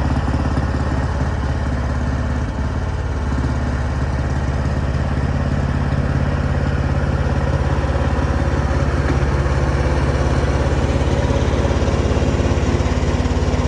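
An engine running steadily at a fast, even beat, dipping briefly as if under load about two and a half seconds in.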